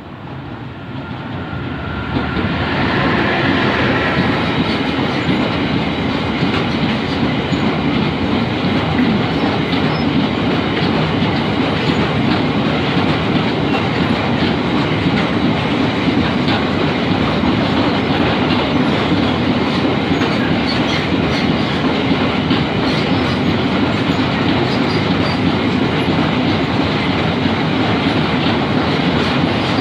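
Freight train of car-carrier wagons passing close by: the sound builds over the first two seconds as it arrives, then holds as a steady rumble of wheels on rails with a clickety-clack over the rail joints.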